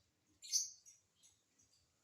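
Lovebird giving one short, shrill chirp about half a second in, followed by a few faint high chirps.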